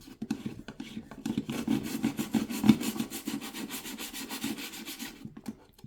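Old toothbrush scrubbing the plastic detergent-drawer recess of a Samsung washing machine in rapid back-and-forth strokes, stopping about five seconds in.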